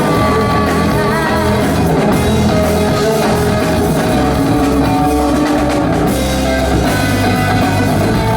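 Live rock band playing a loud song: electric guitars, bass and a drum kit.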